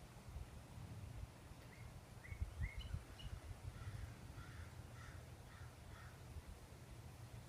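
Wind buffeting the microphone in low, gusty rumbles, with a bird giving a run of short calls, faint and distant, from about two seconds in to near the end.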